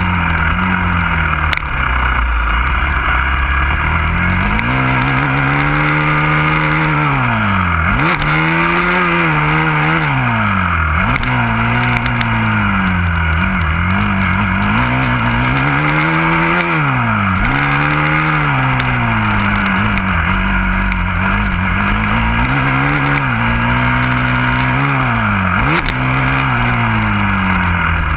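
Husqvarna FC350 four-stroke single-cylinder motocross bike engine being ridden hard: the revs climb and fall back every second or two, with sudden drops as the throttle is chopped, notably about 8, 11, 17 and 26 seconds in.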